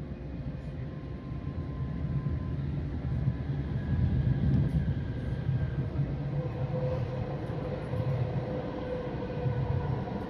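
PATCO Speedline train running between stations, heard from inside the car: a steady low rumble of wheels on rails with a faint steady whine, growing louder about four seconds in.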